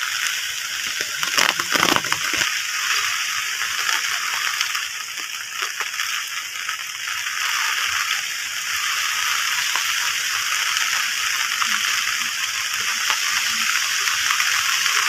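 Steady rain falling, a continuous hiss of drops, with a brief cluster of louder, heavier drips about two seconds in.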